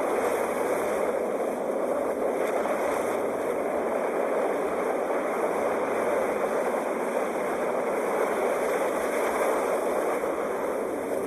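Sea surf making a continuous, steady rushing noise, with no single wave breaks standing out.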